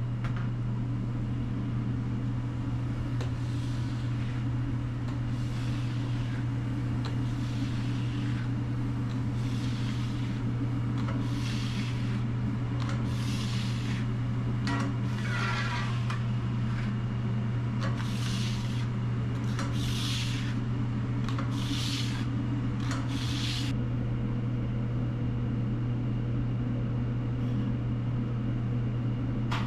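A run of short scrubbing strokes on a food truck's flat-top grill, uneven and about one a second, stopping about 24 seconds in. Under them is a steady low hum of running equipment.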